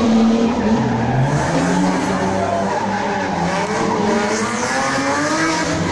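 Rear-wheel-drive race car engine revving hard, its pitch rising and falling through the revs.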